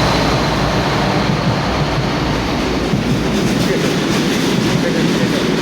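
Freight train wagons rolling past at speed, a steady loud rumble with the clack of wheels over the rail joints.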